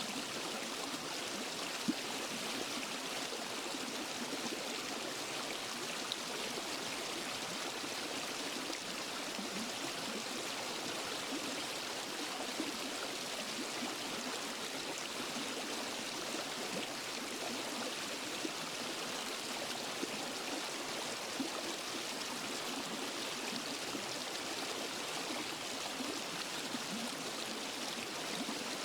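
Waterfall and stream water flowing steadily: a continuous rushing hiss, with a few brief louder splashes.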